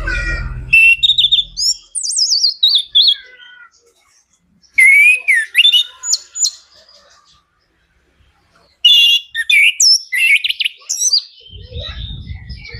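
Chestnut-capped thrush (anis kembang) singing: three bouts of fast, varied whistled phrases with quick sweeping and falling notes, separated by short pauses. A low rumble sits under the very start and the last second.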